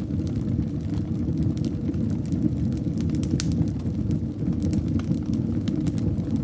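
Wood fire burning in a fireplace: a steady low rumble of flames with sparse sharp crackles and pops from the logs.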